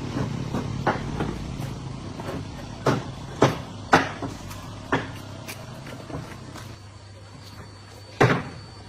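A motor or engine running with a steady low hum, with several sharp knocks, the loudest near the middle and one near the end.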